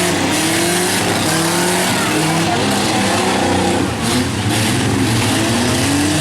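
Several compact pickup and van engines revving hard at once in a demolition derby, their pitches rising and falling as the drivers accelerate, over a dense wash of engine and tyre noise.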